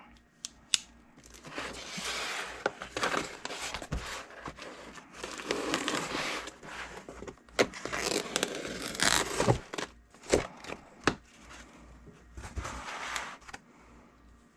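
A package being opened by hand: repeated tearing and crinkling of packaging material, with sharp clicks and knocks in between.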